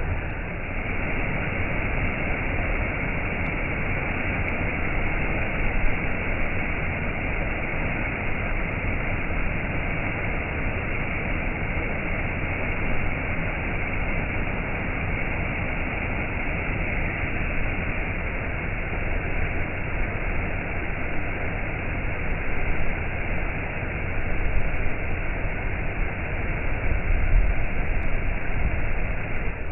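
Waterfall: a steady, unbroken rush of falling water, swelling slightly in level now and then.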